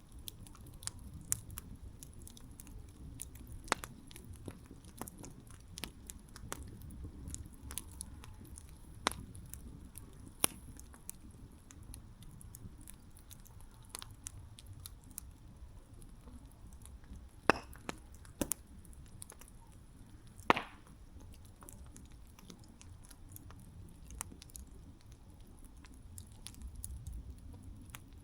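Campfire burning, with a low rumble of flames and irregular sharp crackles and pops of burning wood, the loudest pops about two thirds of the way through.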